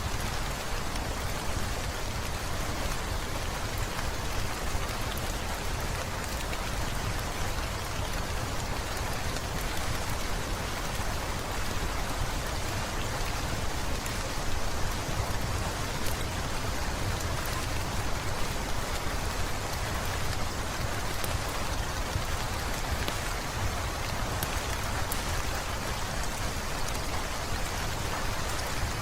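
Heavy rain falling steadily, an even hiss with a low rumble underneath and scattered faint clicks.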